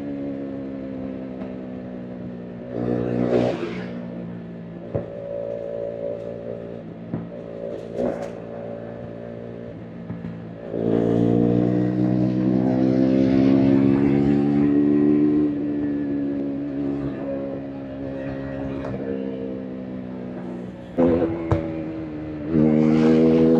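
KTM RC 390's single-cylinder engine and exhaust under way, the throttle snapped open several times with loud surges and the engine note easing and falling between them, with a few short sharp cracks along the way.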